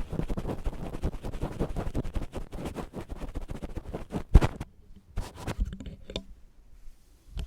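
ASMR ear-picking sounds: an ear pick scraping and scratching rapidly close against the microphone. A single loud knock comes about four and a half seconds in, after which the scraping thins to a few faint strokes.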